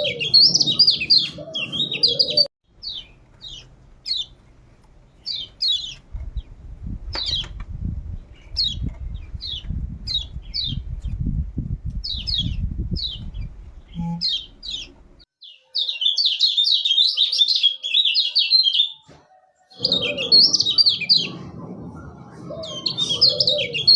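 Kecial kuning white-eye singing: fast, high twittering phrases, then a run of single sharp chirps every half second or so, and further bursts of rapid twittering from about two-thirds of the way in. A low rumbling noise lies under the single chirps in the middle.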